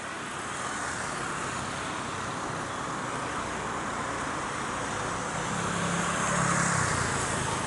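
Steady rushing engine noise that slowly grows louder, with a faint low hum joining near the end.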